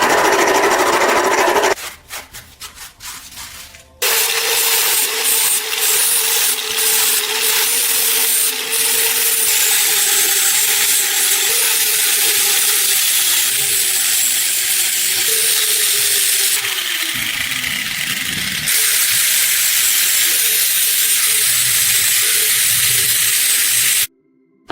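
A handheld power tool abrading metal, its motor humming steadily under a harsh scraping hiss. A short burst comes first, then after a pause a long steady run whose hum sags in pitch about two thirds through, and it stops suddenly just before the end.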